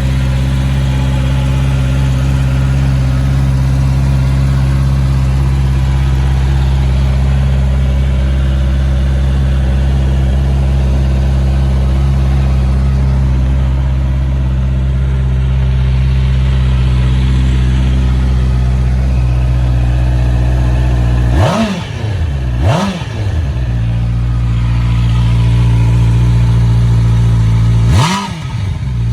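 2021 Honda CBR650R's inline-four engine idling steadily, then revved in two quick blips of the throttle about 21 seconds in, and twice more near the end, the pitch rising and falling back each time.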